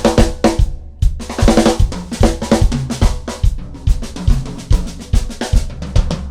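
Drums played in a fast, driving rhythm, several strikes a second, with cymbal-like crashes and a short break just before one second in.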